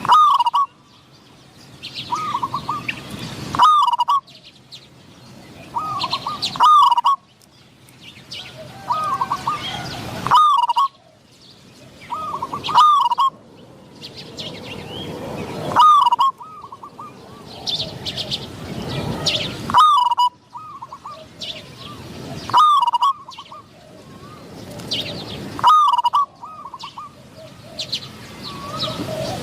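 Spotted doves cooing: a short, repeated coo phrase about every three seconds, with other small birds chirping higher and fainter in the background.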